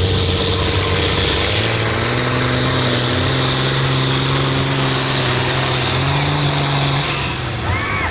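Hot stock pulling tractor's diesel engine running hard under load as it pulls the sled down the track, holding a steady note. Near the end the engine note drops away as the run ends.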